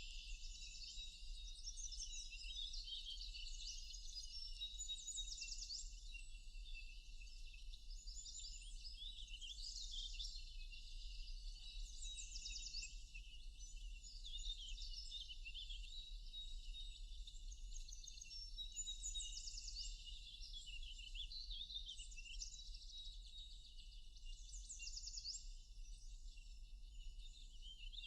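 Many forest birds singing at once: an unbroken chorus of overlapping high chirps, trills and quick whistled sweeps, with a faint low steady hum underneath.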